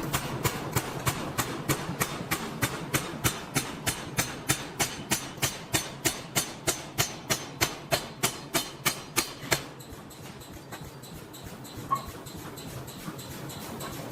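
Forging hammer striking steel in a fast, even rhythm of about four blows a second, stopping suddenly about two-thirds of the way through. Steady factory background noise follows, with one small click.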